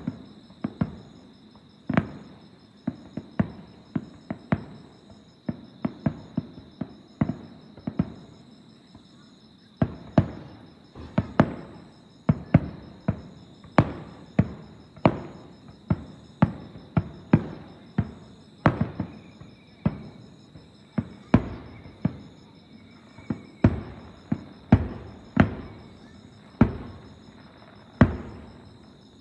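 Aerial firework shells bursting in the distance, booms coming in quick succession about twice a second with a brief lull about a third of the way through. Crickets chirp steadily underneath.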